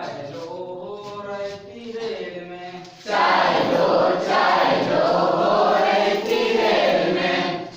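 A group singing a Hindi children's song in chorus. About three seconds in the voices get much louder and denser, as of many singers at once, until just before the end.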